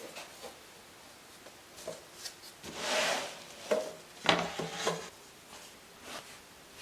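Cherry-wood parts being handled: scattered light wooden knocks and clicks, with a brief scrape of wood on wood about three seconds in and a small clatter of knocks around four and a half seconds.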